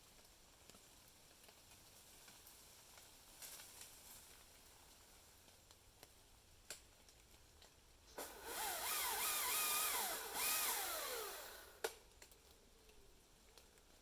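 Chainsaw revving for about three and a half seconds, its pitch wavering up and down, then falling as the throttle is released, followed by a sharp click. Before that only a few faint ticks.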